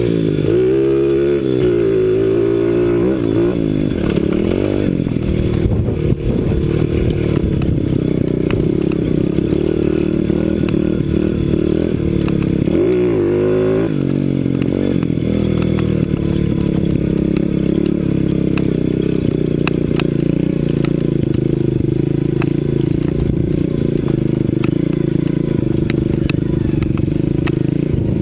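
CRZ 125 Pro pit bike's single-cylinder four-stroke engine under way, its pitch rising and falling in quick revs for the first few seconds, then holding fairly steady, with one more rev up and down about halfway through. Scattered clicks and rattles sound over the engine in the second half.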